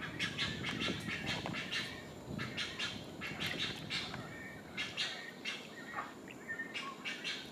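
Birds chirping: a quick, irregular run of sharp chirps, with a few short whistled notes near the end.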